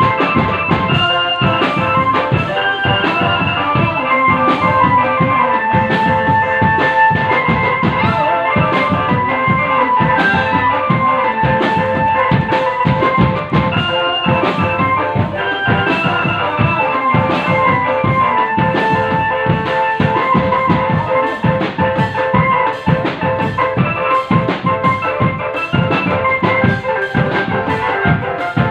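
Drum band playing: drums beating a busy, steady rhythm under a melody line.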